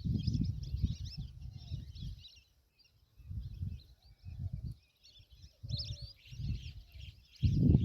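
Many small birds chirping and twittering together. Irregular low rumbling surges come and go underneath.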